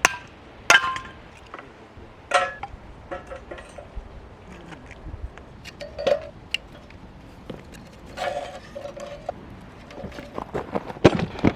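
Hard objects being handled and set down: a series of clinks and knocks, several with a short metallic ring, and a cluster of duller knocks near the end.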